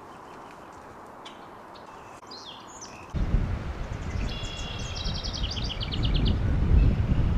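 A songbird calling: faint short chirps at first, then a rapid trill of repeated high notes, about eight a second, stepping slightly downward over about a second and a half. About three seconds in, a steady low rumble starts under it.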